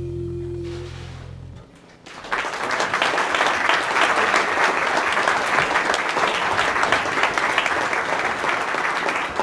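The band's last held chord dies away, and after a brief pause an audience breaks into steady applause that runs on.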